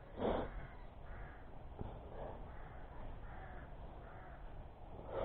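A series of short, harsh bird calls, the loudest one about a third of a second in and several fainter ones following, over a low rumble of wind on the microphone.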